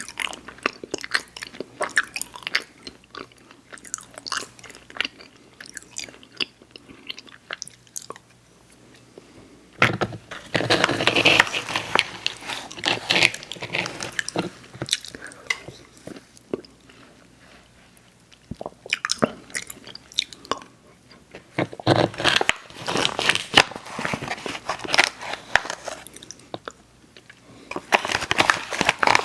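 Close-miked mouth chewing and biting of Airheads Xtremes sour chewy candy, with wet clicks and crunches. The chewing comes in three louder spells: about a third of the way in, about two-thirds in, and near the end.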